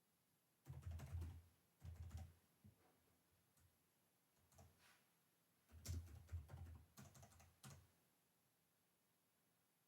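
Computer keyboard being typed on in short runs of keystrokes, a few brief bursts and then a longer run of several seconds, stopping near the end.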